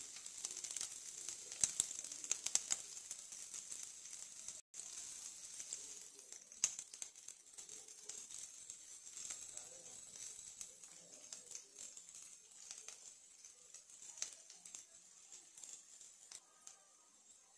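Chopped green chillies and garlic sizzling in hot oil in a nonstick pan: a steady hiss with frequent sharp pops and crackles, busiest in the first few seconds and thinning out after.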